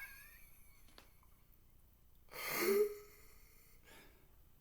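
A man's breathy exhale, a short huffed 'haaa' with the voice falling in pitch, a little over two seconds in, acted out as the giraffe's bad breath.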